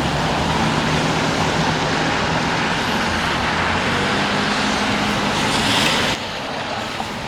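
A motor vehicle running close by: a steady low engine hum over road noise, which drops away suddenly about six seconds in.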